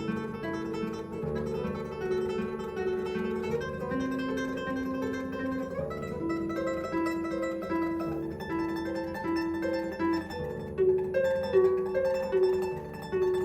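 Classical guitar playing solo: a plucked melody over a moving bass line.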